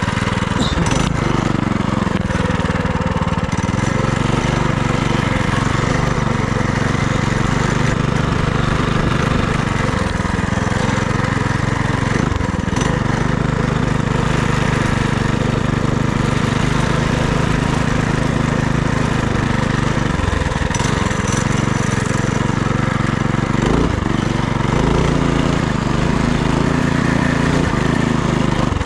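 FRP GMB100 minibike's small single-cylinder engine running under way, its pitch rising and falling with the throttle. The revs dip briefly about twelve, twenty and twenty-four seconds in.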